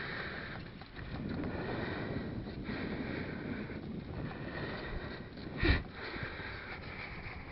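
Wind buffeting the microphone and a low rolling rumble from a Stels mountain bike ridden along a forest track, with one short loud knock about two-thirds of the way through.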